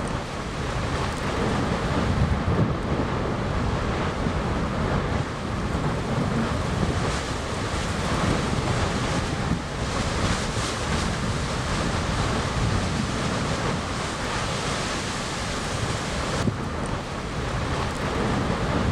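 Erupting volcano giving off a continuous deep roar and rumble, with wind buffeting the microphone.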